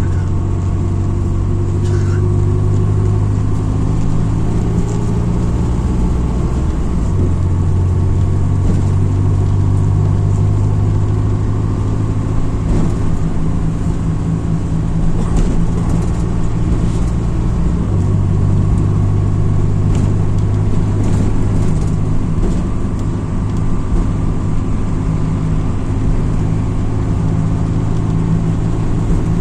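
MAZ-206 city bus engine running while the bus is under way, heard from inside the passenger cabin. Its note shifts about seven seconds in and again about eighteen seconds in, with scattered light rattles and knocks from the body.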